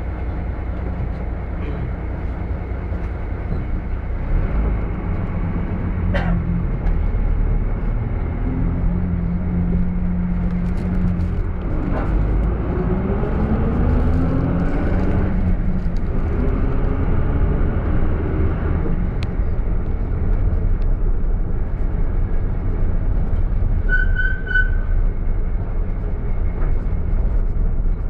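Street traffic with a city minibus engine running; about halfway through the engine pitch rises as a vehicle pulls away and accelerates. Near the end there is a brief high squeal in three quick pulses.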